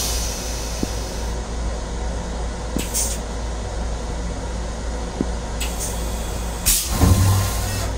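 Steady low rumble of a Long Island Rail Road M7 electric railcar, heard inside its restroom, with brief hisses of air about three seconds in and twice near the end, the last one loudest with a low hum under it.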